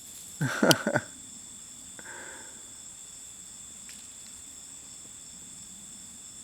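Steady high-pitched insect chorus, a continuous even drone. About half a second in there is a brief, louder, low-pitched vocal sound with a couple of clicks, and a fainter echo of it about two seconds in.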